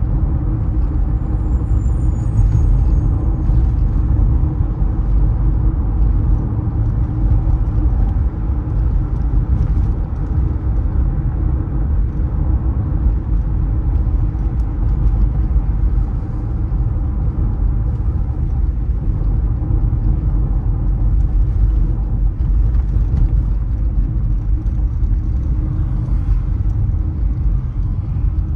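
Car driving on city roads: a steady low rumble of engine and tyre noise.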